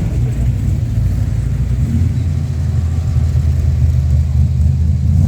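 A car engine running at low revs close by: a steady deep rumble that shifts in tone about two seconds in.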